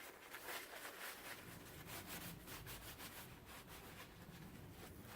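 Faint, rapid rubbing and scuffing of hands working small oil-change parts, such as wiping a cloth over the magnetic drain plug.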